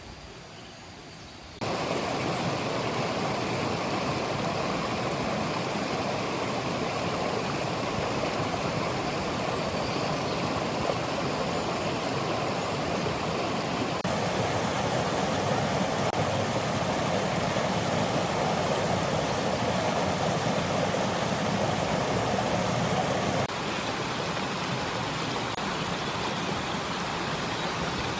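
Steady rush of river water flowing, starting abruptly about two seconds in, with two sudden shifts in level and tone.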